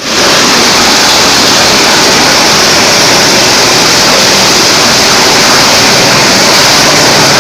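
Plastic grinder (granulator) machine running, a loud, steady rushing whir with a strong hiss.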